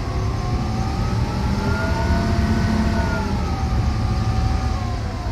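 Case IH Axial-Flow 5130 combine running, with a heavy low engine rumble under a machinery whine. The whine rises in pitch over the first couple of seconds, holds, then falls back near the end.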